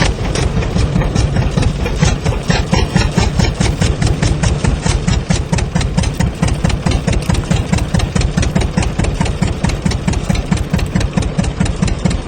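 A loud motor or engine running steadily with a fast, even pulsing.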